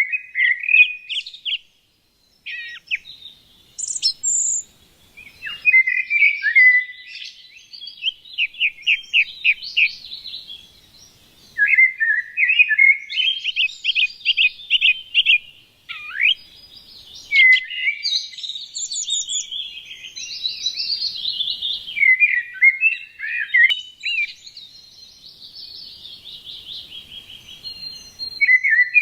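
Small songbirds chirping and singing: a busy run of quick chirps and rapid trills, with a couple of short pauses.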